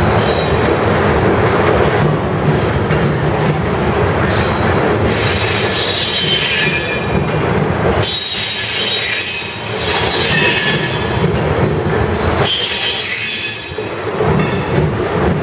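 Freight train of covered hopper cars rolling past at close range: a steady loud rumble of steel wheels on rail, with high metallic wheel squeals coming and going, some sliding down in pitch.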